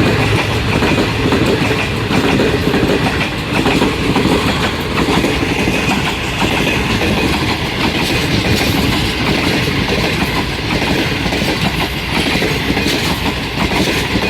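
Green Line Express passenger train running past at speed close by, its wheels clattering steadily over the rail joints.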